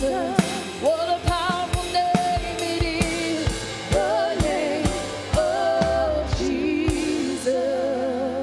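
Live worship band playing a praise song: voices singing a melody over a drum kit and instruments, with a steady beat of drum hits. The music grows quieter near the end as the song winds down.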